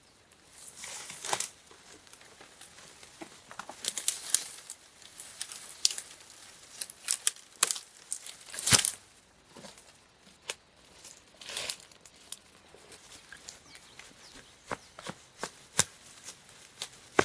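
Irregular rustling and tearing sounds, broken by sharp snaps and cracks, the loudest a crack near the middle.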